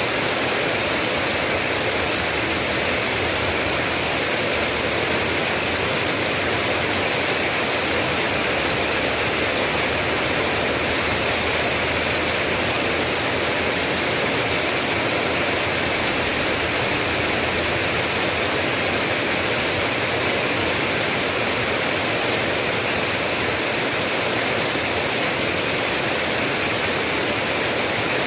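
Steady rain as an even, unbroken hiss, with no single drops or thunder standing out.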